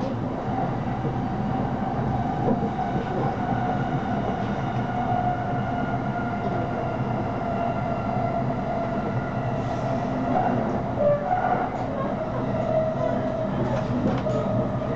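Running noise heard inside an electric commuter train carriage moving at speed: a steady rumble with a steady tone over it, and a few clicks from the wheels about two-thirds of the way through and again near the end.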